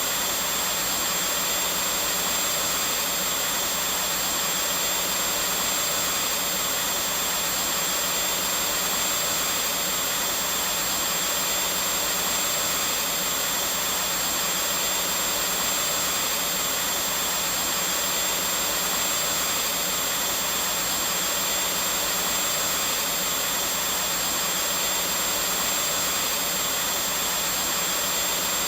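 Vacuum cleaner running continuously at a constant pitch: a steady, unchanging whoosh of motor and airflow with a thin high whine.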